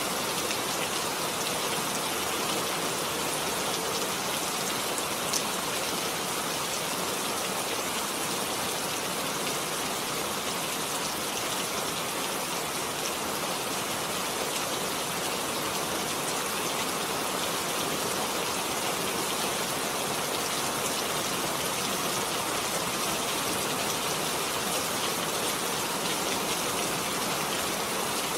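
Heavy rain falling steadily, a dense even patter. There is a single sharp drop-like tick about five seconds in.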